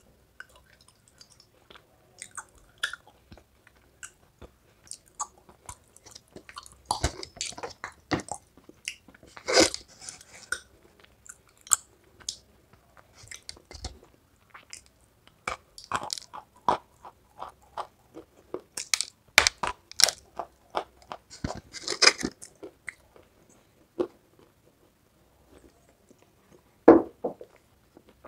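Close-miked biting and chewing of dry lumps of edible white clay (khadi), with sharp, irregular crunches and quieter chewing between them.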